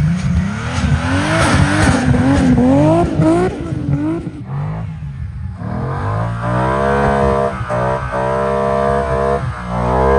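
The Toyota Supra MK4's big-turbo 2JZ inline-six being revved hard while drifting on snow, its pitch climbing and dropping quickly several times. About four and a half seconds in the note drops away briefly, then it comes back and holds a steadier, high-revving tone.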